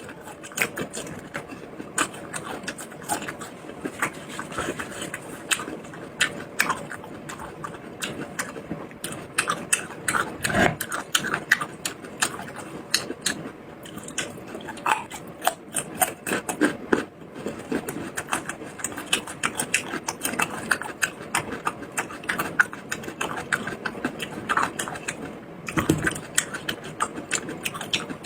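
Close-miked eating: continuous chewing with many quick, irregular small clicks and smacks.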